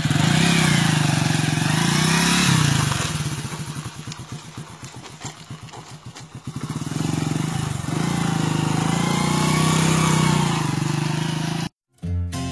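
Hero motorcycle's single-cylinder engine revving up and down, dropping in the middle to a slow, uneven idle before revving again. The sound cuts off suddenly near the end.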